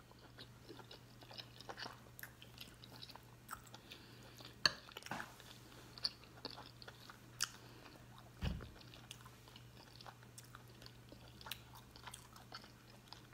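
A person chewing tender barbecue beef short rib with the mouth open: faint, irregular wet smacks and clicks. A soft low thump about eight seconds in, over a steady low hum.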